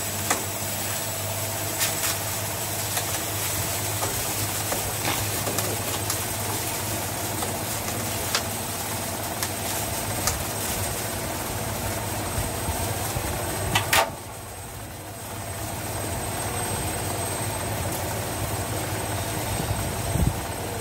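Washing machine running with a steady mechanical hum and scattered sharp knocks. About 14 seconds in there is a loud clatter, then the hum drops off suddenly and builds back up over the next couple of seconds.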